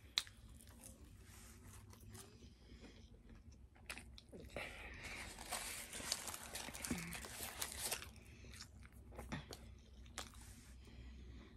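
Close-up chewing and crunching of a crispy fried chicken sandwich. There is a sharp click just after the start, and the crunching is densest and loudest from about halfway through for a few seconds.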